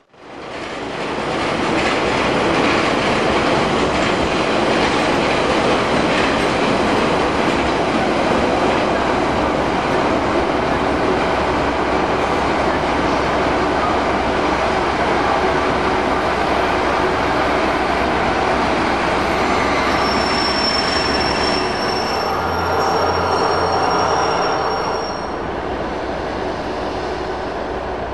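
A train running through the station close by: a loud, steady rumble of wheels on rail, with high wheel squeal. The squeal is clearest about twenty seconds in. The sound fades in at the start and eases off about twenty-five seconds in.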